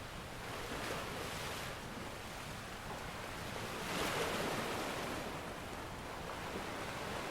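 Ocean surf washing onto the shore: a steady rush of breaking waves that swells about a second in and again, louder, about four seconds in.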